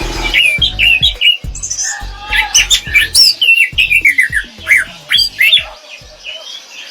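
Orange-headed thrush singing a rapid, continuous run of varied whistled and chirping notes that slide up and down in pitch, with sharp clicks between them. The song thins out near the end.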